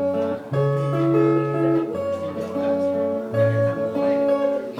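Acoustic guitar playing sustained chords over a bass line that changes note every second or so.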